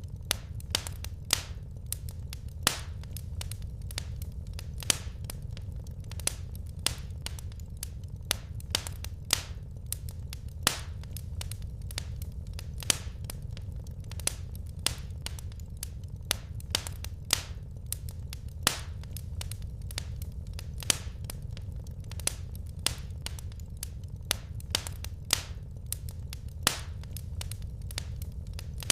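Wood fire burning in a fireplace: irregular sharp crackles and pops of the logs, several a second with some louder snaps, over a steady low rumble of the flames.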